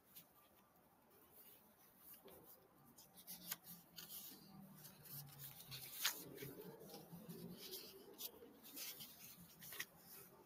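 Near silence: room tone with faint scattered clicks and light rustling.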